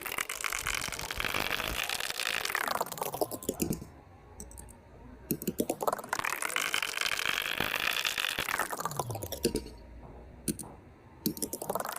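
A small electric motor spins up with a rising whine, runs steadily for about two seconds with a fast clicking clatter, then winds down; this happens twice, and it starts spinning up again near the end.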